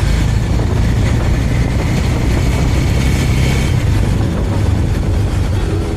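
Suzuki Thunder motorcycle engine running steadily while riding at speed, with wind rush over the microphone.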